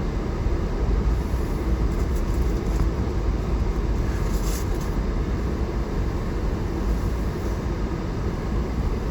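Inside a moving vehicle's cabin: the heater blower fan running loud, over a steady low rumble of road and engine noise.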